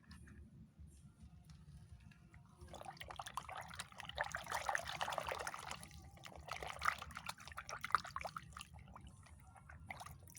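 Water splashing and trickling in two stretches, the first longer and louder, with a few sharper clicks in the second, as toys are washed.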